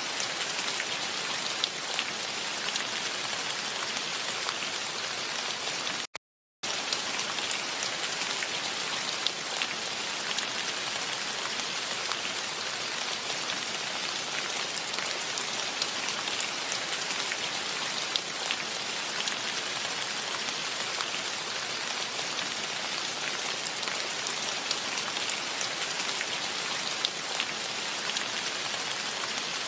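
Steady rain falling, with single close drops ticking now and then. About six seconds in, the sound cuts out completely for under half a second and then returns.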